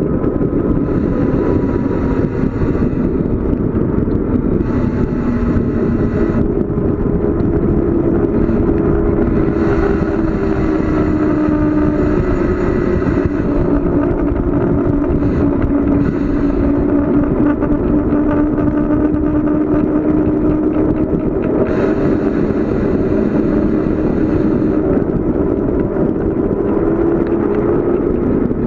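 Steady loud rush of air and road noise from a bicycle descending a mountain road at speed, with a low hum that wavers slowly in pitch.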